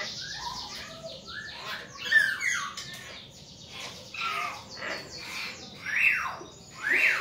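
Hill mynas calling: a run of varied short whistles and chirps, with two louder sweeping calls near the end.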